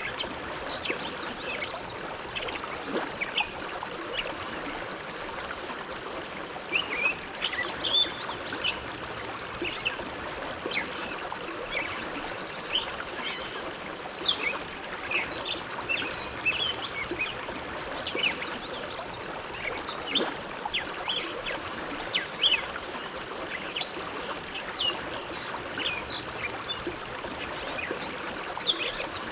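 Flowing river water: a steady rush with many short, bright gurgles and splashes scattered throughout.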